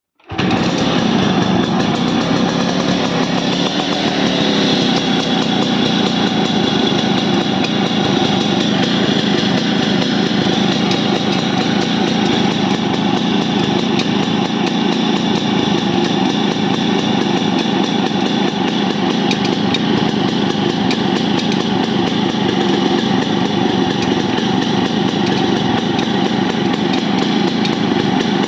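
Yamaha RX100 single-cylinder two-stroke motorcycle engine running at a steady idle, unchanging throughout, with an unexplained noise that the owner is asking about.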